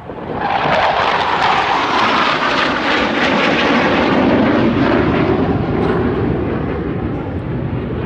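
Thunderbirds F-16 jet fighter making a loud low pass, its jet roar swelling about half a second in and sinking in pitch as it goes by, easing off near the end.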